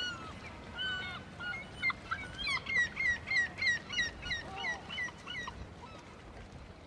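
Birds calling: a run of short calls, each falling in pitch, about three a second, thickest through the middle and thinning out near the end.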